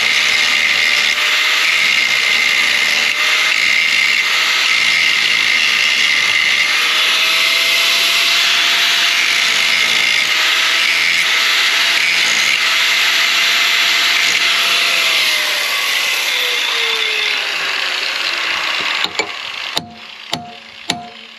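A power tool runs steadily, its pitch wavering slightly, then winds down with a falling pitch. It is followed by a few sharp metal hammer blows, roughly two a second, struck on the mower's stuck shaft and bearing.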